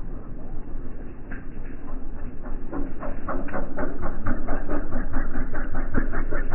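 Cessna 172's piston engine and propeller heard slowed down as a rhythmic chugging pulse of about four to five beats a second over a low rumble, growing louder from about two seconds in.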